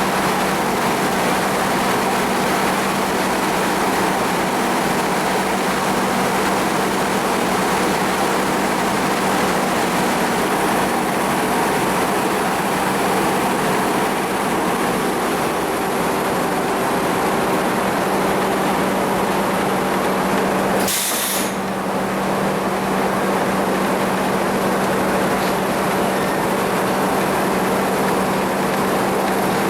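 Sawmill machinery running steadily: a constant motor hum under an even mechanical hiss, with a brief break about two-thirds of the way through.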